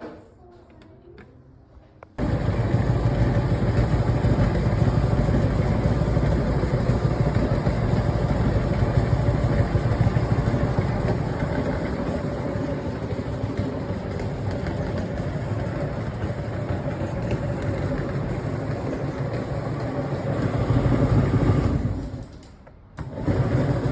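Tumble dryer running: a motor-driven drum starts abruptly about two seconds in and runs with a steady mechanical rumble and hum. Near the end it stops for about a second and then starts again.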